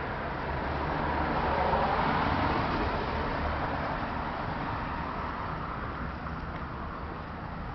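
Road traffic: a vehicle passing close by, its noise swelling about two seconds in and then slowly fading into the general traffic rumble.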